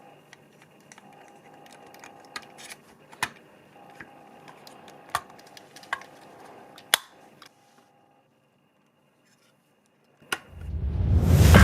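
Scattered sharp clicks and taps of small model-car parts being handled, over a faint steady hum, for about seven seconds. Then a few seconds of near silence and one more click, after which loud music swells in near the end.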